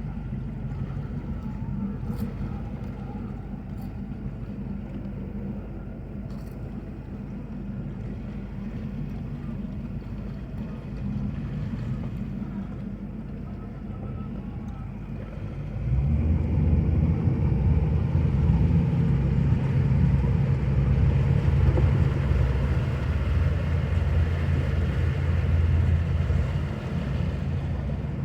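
A boat engine running steadily, getting much louder about halfway through and easing off a little near the end.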